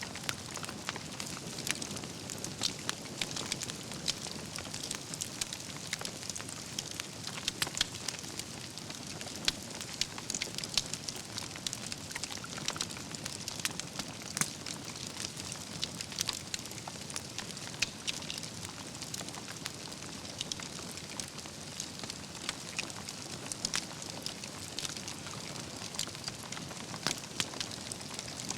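Campfire of burning logs crackling steadily, with a low hiss under dense irregular pops and snaps, a few louder cracks standing out.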